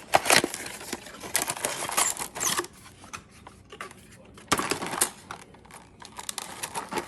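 Trigger packaging being handled and opened: irregular crinkling and rustling with sharp clicks, in several bursts.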